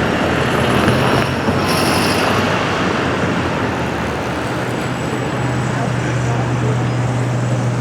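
Busy city street traffic: a steady wash of road noise, with a vehicle engine's low hum that grows stronger in the second half.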